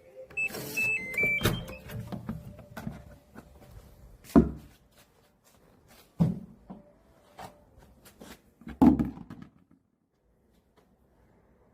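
Household handling noises: a few short electronic beeps at changing pitch, then clicks and knocks with three louder thuds a couple of seconds apart.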